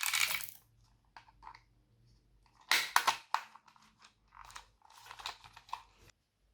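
Slime being squished and stretched by hand, giving crackly, sticky popping sounds in irregular bursts, loudest about three seconds in.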